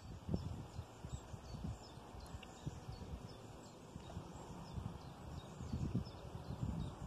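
Faint birds chirping, a few short calls each second, over an uneven low rumble that swells near the end.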